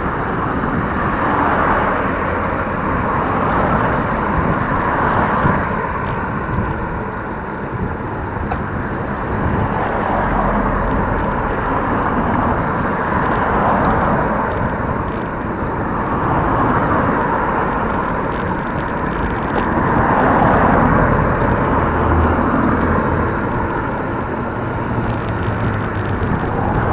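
Steady rushing wind and road noise of a bicycle ride, swelling and easing every few seconds.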